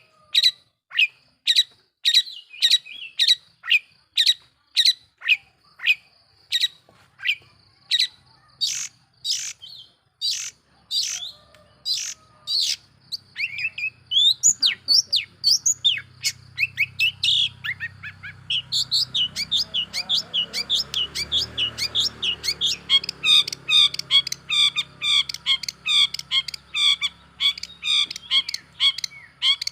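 Long-tailed shrike (cendet) singing hard: a string of harsh, scratchy calls about two a second, then, about two-thirds of the way through, a much faster chatter of repeated notes. A low hum comes in beneath it around the middle.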